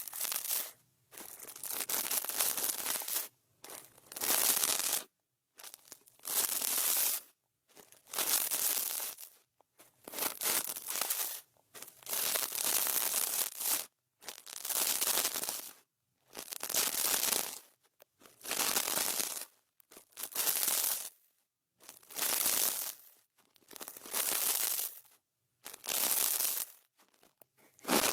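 ASMR brush strokes swept across the microphone, a scratchy rustle each time, about one every two seconds with short silences between.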